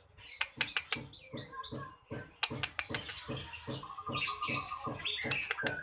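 Small songbird calling excitedly: a fast run of sharp ticking notes, about three or four a second, mixed with short chirps and brief whistles, the agitated 'ngamuk' song that keepers play to rile other birds into singing.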